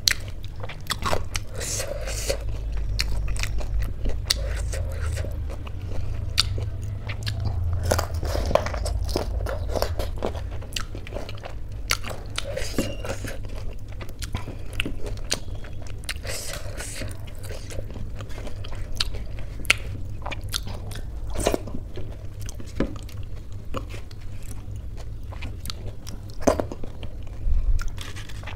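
Close-miked chewing and mouth sounds of a person eating khichdi with her hands, with many sharp crunchy clicks over a steady low hum.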